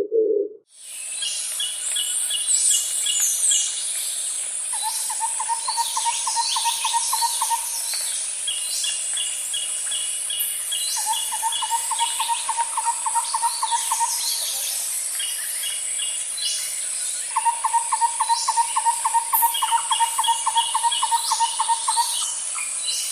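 Songbirds calling: a rapid, even trill repeated three times, each lasting about three seconds, with series of short high chirps between them. A steady high buzz runs underneath, like insects. A dove's coo ends in the first second.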